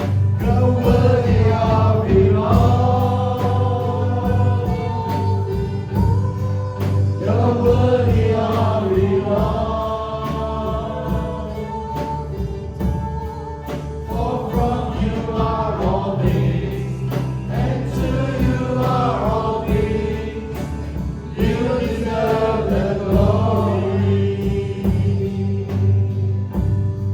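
Gospel worship music: a group of voices singing in long, swelling phrases over a band with a steady bass and a regular ticking beat.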